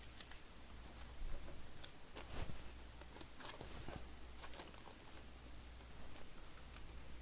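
Faint, scattered clicks and light rustles of trading cards being handled and sorted on a table, over a low steady hum.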